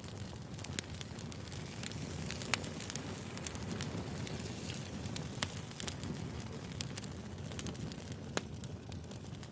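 Wood fire burning: a steady low rumble with irregular sharp crackles and pops, a few louder snaps scattered through.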